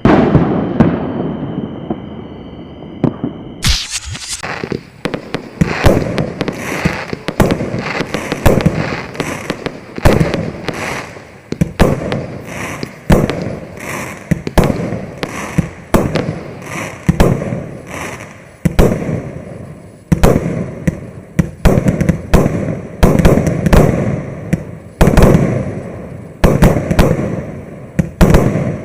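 Maxsem Twister MC112 firework cake, a 120-shot battery of 20 to 30 mm shells, firing. A loud bang at the start fades away over a few seconds. From about four seconds in comes a rapid, irregular string of launches and aerial bursts, several a second.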